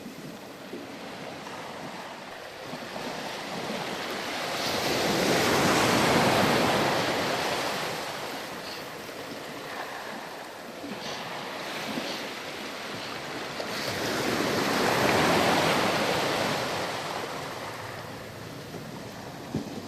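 Ocean surf breaking on a sand beach: two waves build up, crash and wash back, about nine seconds apart.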